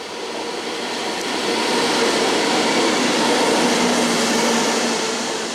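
A train passing at speed: a rushing rumble of wheels on rails that swells to a peak about three seconds in, then begins to fade.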